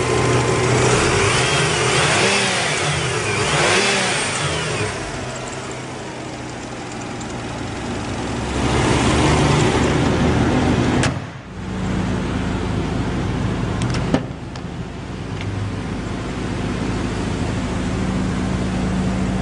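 Mazda RX-7's 1.3-litre twin-turbocharged rotary engine running, revved up and down a couple of times in the first few seconds and again about nine seconds in. After an abrupt break about eleven seconds in, it runs at a steady idle. A single sharp click comes about fourteen seconds in.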